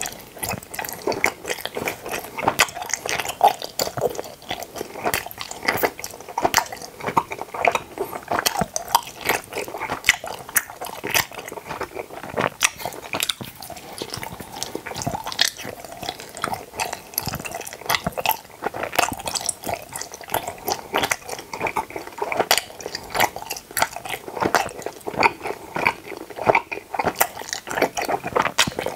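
Close-miked mouth sounds of chewing teeth-shaped gummy jelly candies: many quick smacks and clicks, continuous and without pause.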